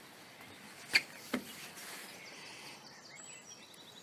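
Two sharp knocks close together about a second in, then faint birdsong over a steady outdoor background hiss.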